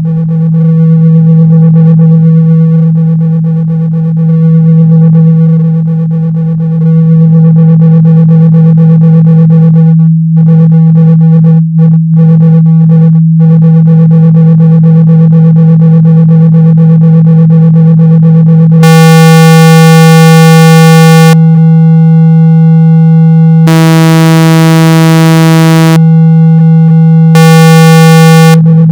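Loud, steady low electronic tone of about 162 Hz, a speaker-cleaning tone played to vibrate water and dust out of a speaker. Three times in the second half it turns harsh and buzzy, rich in high overtones, for a second or two at a time.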